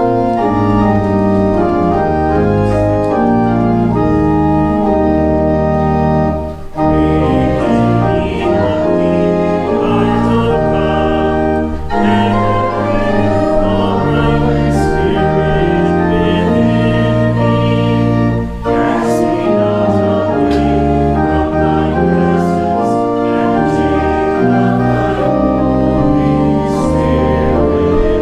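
Church organ playing loud sustained chords over deep bass notes, starting abruptly, with short breaks between phrases about a quarter and two-thirds of the way through.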